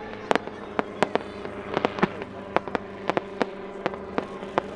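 Aerial pyrotechnics fired from a helicopter in flight: a rapid, irregular string of sharp firework cracks and bangs, about three a second, over a steady hum from the helicopter.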